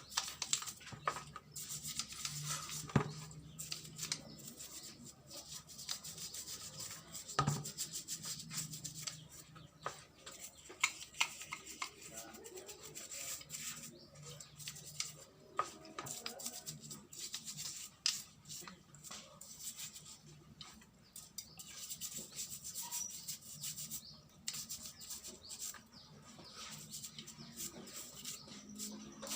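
Parts of a scooter carburetor being scrubbed and handled: uneven rubbing strokes with many small clicks and taps scattered throughout.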